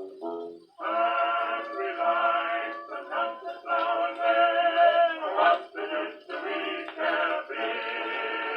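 A 1912 acoustic recording of a male vocal quartet with orchestra, played back on an Edison Diamond Disc phonograph, with a thin sound lacking deep bass and high treble. It begins with a short chord, then moves into long held sung notes with vibrato toward the final chord.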